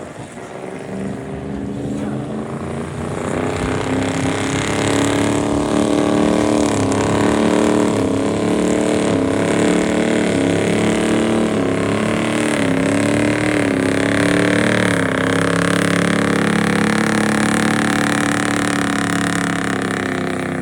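Gasoline engine of a stock gas-class pulling vehicle running hard at high revs under load. It grows louder over the first few seconds, then holds, its pitch wavering up and down.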